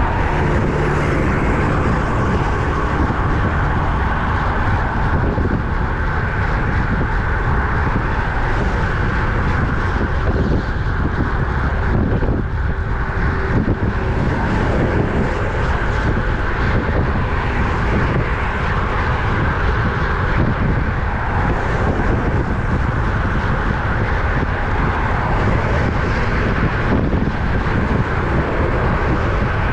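Steady, loud wind rush and rumble on the microphone of a road bike ridden at speed, with road noise underneath.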